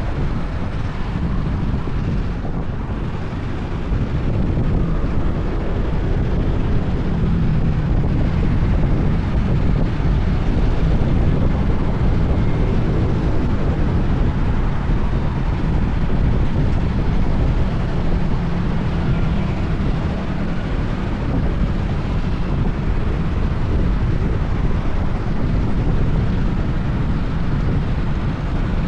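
Honda PCX 160 scooter on the move: wind buffeting the camera microphone over the scooter's single-cylinder engine and tyres on asphalt, a steady low rumble that steps up about four seconds in.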